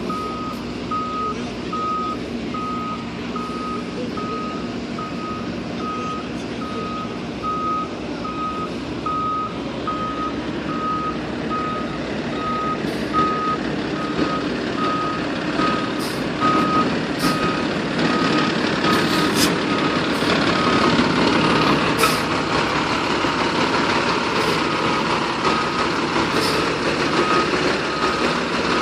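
Fire engine's reverse alarm beeping steadily, about one beep a second, over the truck's engine running as it backs up. The engine grows louder in the second half, with several short sharp bursts.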